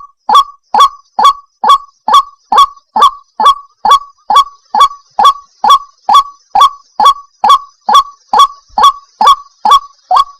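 White-breasted waterhen calling: a steady, unbroken run of short, loud 'wak' notes, about two a second, each note rising in pitch. This is the bird's repetitive territorial call, played as a lure for trapping.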